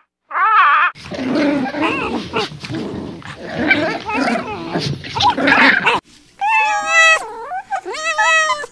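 Pet animal calls in two clips. First comes a short cry and a dense jumble of overlapping calls. After an abrupt cut about six seconds in, there are long, clear, wavering cries.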